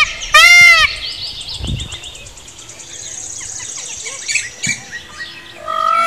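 Birds calling: one loud, harsh call ends just under a second in. It gives way to a quieter mix of small chirps and a high, rapid trill, and a new loud, steady call begins near the end.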